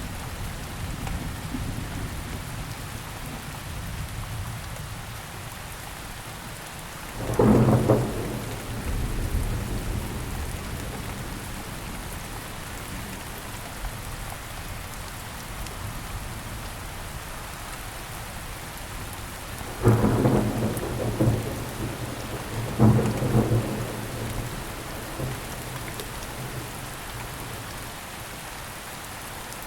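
Steady rain falling, with rolls of thunder: a loud clap about seven seconds in and two more about two-thirds of the way through, each trailing off into low rumbling.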